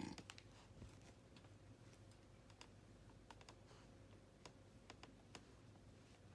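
Near-silent room with faint, irregular light clicks, about eight over several seconds, over a low steady hum.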